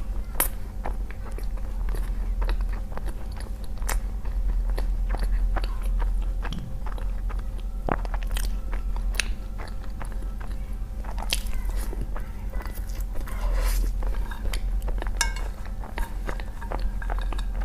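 Close-miked chewing of seasoned noodles, with many sharp wet clicks throughout, over a steady low hum.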